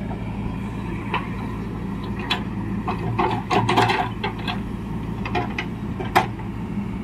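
Diesel engine of earth-moving machinery running steadily, with scattered clanks and knocks that bunch together about three to four seconds in, and one sharp knock near the end.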